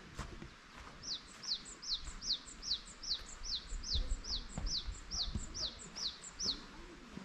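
A songbird singing a rapid series of about fifteen short, high notes, each falling in pitch, at just under three a second. It starts about a second in and stops shortly before the end.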